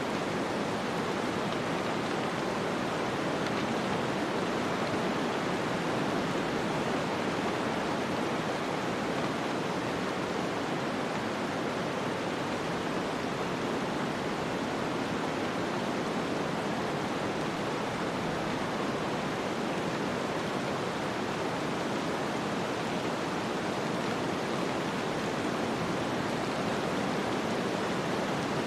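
Snowstorm ambience: a steady, even rush of wind noise with no gusts, crackles or other distinct events.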